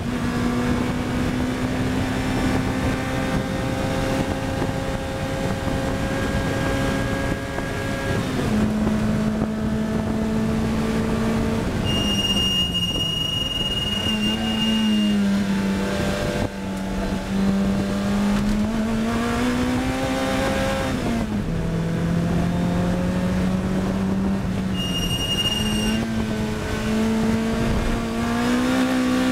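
Lotus Elise R race car's engine running hard on track, heard on board: the note holds high, drops at gear changes, falls away under braking and climbs again as it accelerates out of corners. A thin high squeal comes in twice over the engine, about twelve seconds in for three seconds and again briefly near twenty-five seconds.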